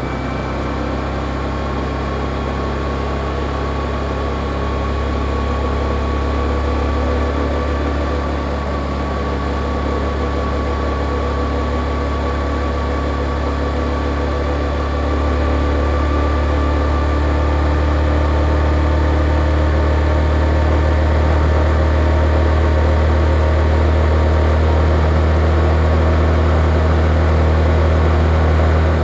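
Yamaha XSR155's stock single-cylinder engine and standard exhaust running under steady throttle while riding, its pitch rising slowly. It gets louder about halfway through, then drops away right at the end.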